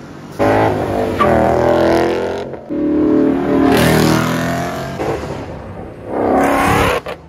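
Car engines revving hard in three loud bursts, the pitch rising and falling with each rev, each burst cut off abruptly.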